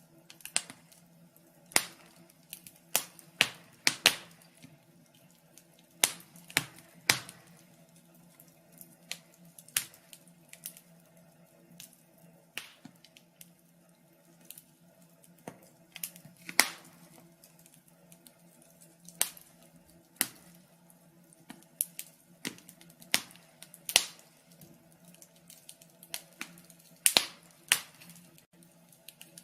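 Wood fire crackling in a fireplace: irregular sharp pops and snaps, often in quick runs of two or three, some much louder than the rest, over a faint steady low hum.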